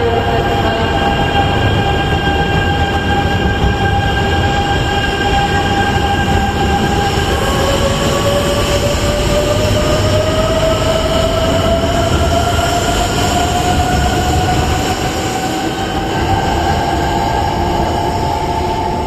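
E926 'East i' Shinkansen inspection train pulling away, its running noise steady with a whine that rises in pitch about halfway through as it picks up speed, then holds steady.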